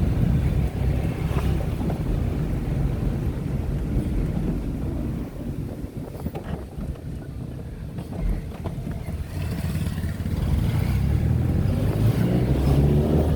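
Tata Nano's small twin-cylinder petrol engine heard from inside the cabin while driving. The engine drone eases off midway, then builds again near the end as the car picks up speed, with road and tyre noise underneath.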